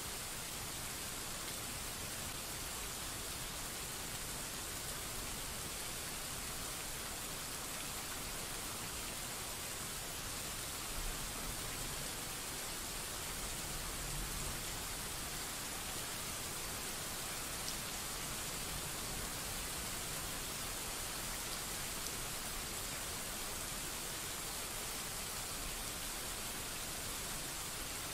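Steady rain hiss, even and unbroken, with a faint low rumble of distant thunder about halfway through.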